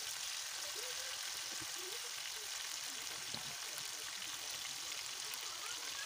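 Sliced tomatoes sizzling steadily in hot oil in a pan, an even crackling hiss.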